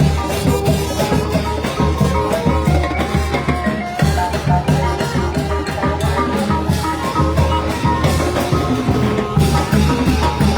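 Thai brass band (trae wong) playing, with drums keeping a steady beat under the tune.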